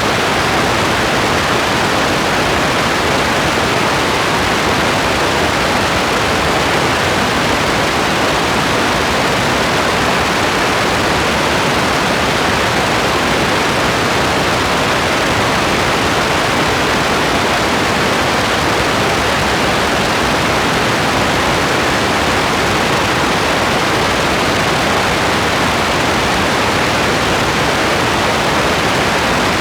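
Steady rain, an unbroken even hiss with no separate drops, thunder or other events standing out.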